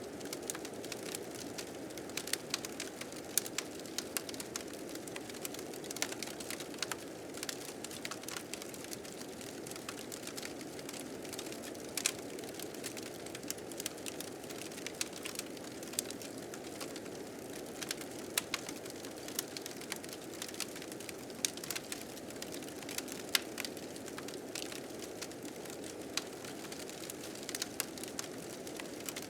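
Steady howling blizzard wind with a crackling fire: frequent sharp pops and snaps over a constant rushing noise.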